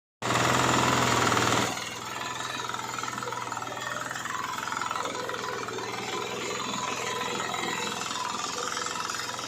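Mini tractor engine running with a fast, even knock, louder for about the first second and a half, then settling to a steady run.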